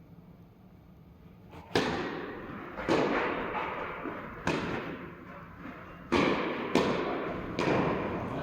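Tennis ball being struck back and forth in a rally: six sharp hits of racket and ball, some pairs closer together where the ball bounces, each ringing out with echo.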